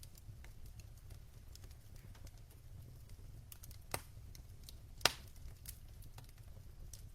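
Log fire crackling in a fireplace: scattered small snaps over a low steady rumble, with two louder, sharper pops about four and five seconds in.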